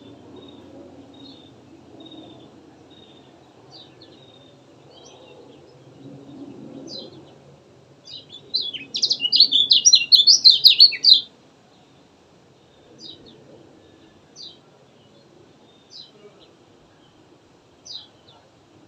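Kecial kuning, a small white-eye, singing: soft thin chirps, then about eight seconds in a loud, fast twittering song lasting about three seconds, followed by sharp single chirps every second or so.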